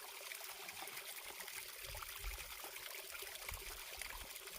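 Small mountain stream of running water trickling steadily.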